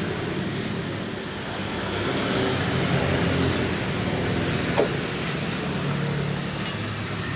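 A motor vehicle engine running steadily, with a short tap about two-thirds of the way through.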